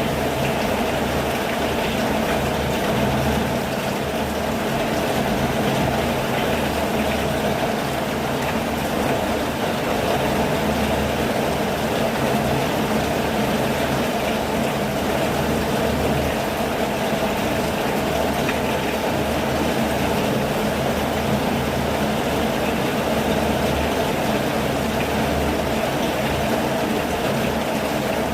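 Steady rain falling, an even, unbroken wash of noise that holds at the same level throughout.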